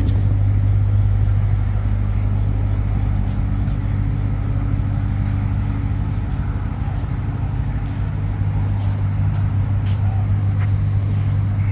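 Car engines idling, a steady low hum with no revving.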